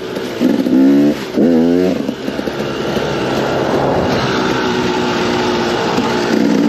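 KTM 250 XC-W two-stroke dirt bike engine revving on the trail: two quick rising revs about half a second and a second and a half in, steadier running through the middle, and another rev near the end.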